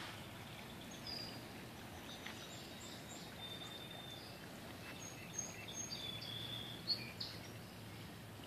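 Songbirds chirping in short high calls, most of them about five to seven seconds in, over steady outdoor background noise.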